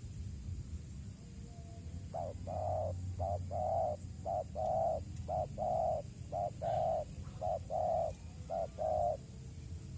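Spotted dove cooing: a series of coos, mostly a short note followed by a longer one, repeated from about two seconds in until about nine seconds in.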